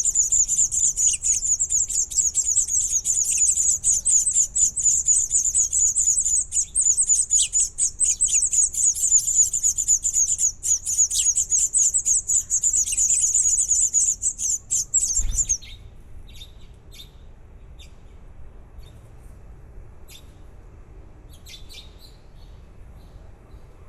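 Baby birds chirping in a continuous, rapid, high-pitched chorus that stops abruptly about fifteen seconds in, just after a low thump; only faint scattered peeps follow.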